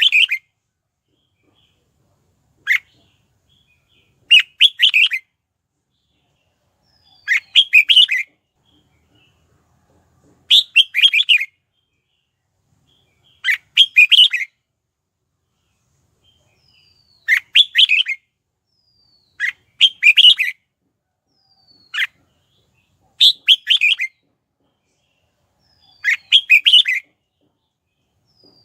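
Red-whiskered bulbul singing short, quick, bright phrases of several notes, repeated about every three seconds with pauses between, and now and then a single short note. This is the song of a decoy bulbul used to call in wild birds.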